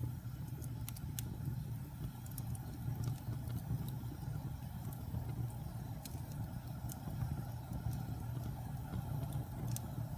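Wood fire burning in a fireplace: a steady low roar with scattered sharp crackles and pops.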